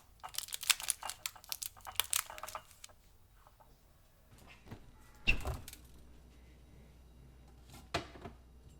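Plastic bag crinkling as it is handled for about two and a half seconds, then two separate knocks a few seconds apart.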